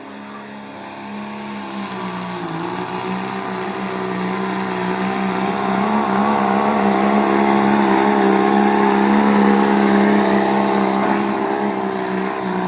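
Dodge 4x4 truck engine running hard under load on a pull, holding a steady pitch. It grows louder over the first six seconds, holds, then eases slightly near the end.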